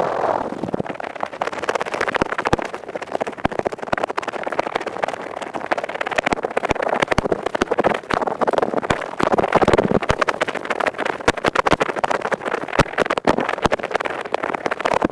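Real earpick scraping quickly and continuously right against the microphone, as in ear cleaning: a dense, crackly run of fast little scratches.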